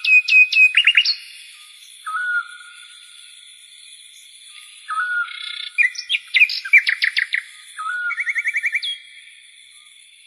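Birdsong: quick chirps, short whistles and fast trills in two busy spells, with one short whistled note repeating about every three seconds, over a steady high hiss.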